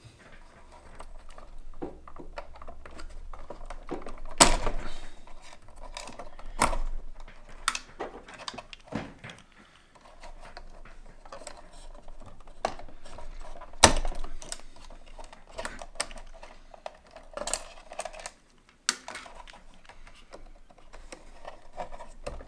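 Plastic body parts of an LGB G-scale model locomotive clicking and knocking as the roof is worked loose and lifted off the body, with handling rustle between the clicks. Several sharp clicks stand out, the loudest about 4 and 14 seconds in.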